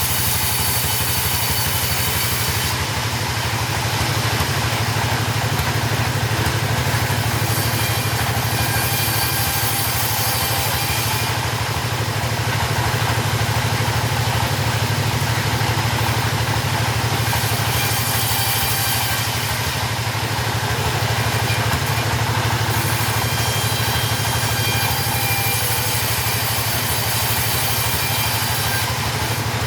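Two-stroke chainsaw running steadily in a long cut through timber. A high hiss comes and goes several times over the steady engine note.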